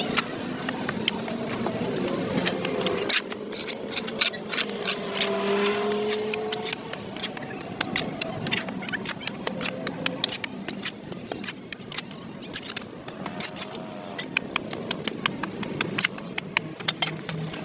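A hand tool scraping and scratching dirt off a sidewalk: a quick, irregular run of sharp clicks and scrapes that grows busier about three seconds in.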